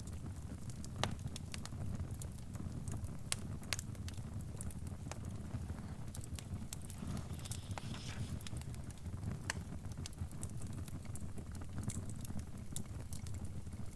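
Crackling wood fire: irregular sharp pops and snaps over a low steady rumble.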